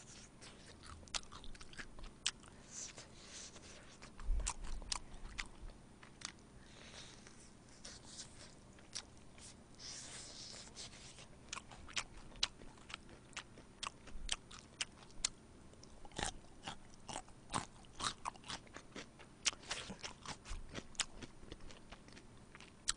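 Close-miked chewing of crispy soy sauce fried chicken: many small crunches and mouth clicks, coming thicker in the second half, with one low thump about four seconds in.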